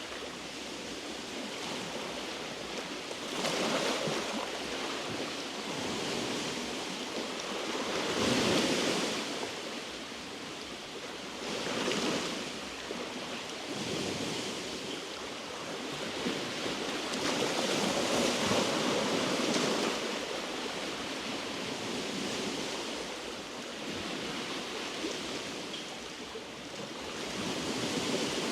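Small sea waves washing over a rocky shore, a steady wash of surf that swells as each wave breaks, every few seconds.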